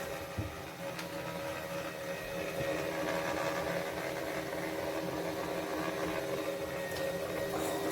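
Electric spin mop's motors running with a steady whir, growing a little louder about three seconds in.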